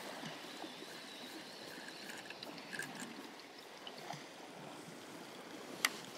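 Sea water washing and lapping against shore rocks in a steady low wash, with a few faint ticks and one sharp click near the end.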